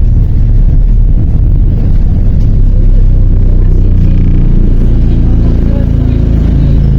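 MAZ 103 city bus under way, heard from inside the cabin: a loud, steady low diesel drone and road rumble, with the engine note strengthening and rising slightly from about four seconds in.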